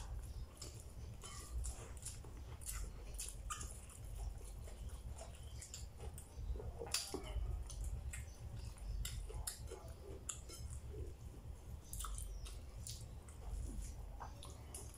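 A person chewing and eating rice and fish by hand close to the microphone: irregular mouth clicks and smacks, over a steady low hum.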